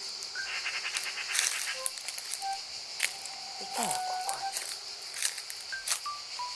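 An unidentified bird's strange calls: a quick rapid rattle, then scattered short whistled notes and a falling glide, over a steady high insect drone.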